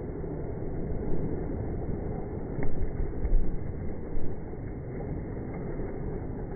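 Steady rush of river water and wind noise on the microphone aboard a whitewater raft, with a few louder bumps or splashes in the middle.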